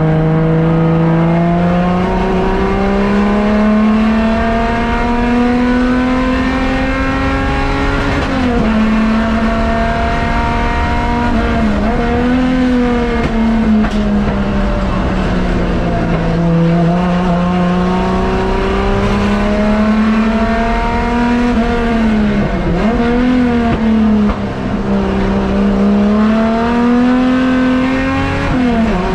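Car engine under load, its pitch climbing and falling continuously, with several quick drops where it shifts gear or comes off the throttle.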